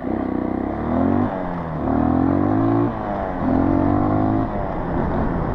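Small off-road vehicle's engine accelerating away on a trail, its pitch climbing three times with a drop between each, as it shifts up through the gears.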